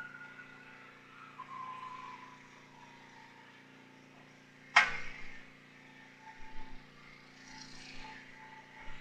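A steady low engine-like hum. A rooster's crow tails off in a falling tone over the first couple of seconds, and a single sharp knock comes about five seconds in.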